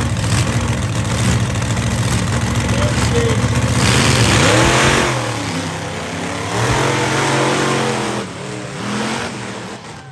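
Monster truck engine running loud and revving, with the pitch rising and falling. It is loudest about four to five seconds in, eases off, revs up again, then fades near the end.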